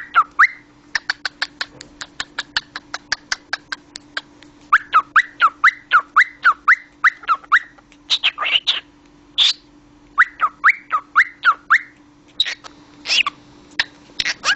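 Cockatiel vocalising: a quick run of sharp clicks, then several runs of short chirps at about four a second, broken by a few longer calls.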